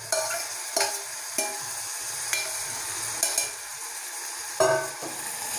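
Boiled sweet corn kernels sizzling as they drop into butter and spices frying in a steel pan, with a steel spoon clinking and scraping against the steel pot several times.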